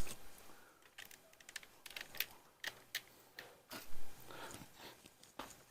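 Irregular light clicks and crackles, with a louder rustle about four seconds in: a root-bound tomato plant and its potting soil being handled and shifted.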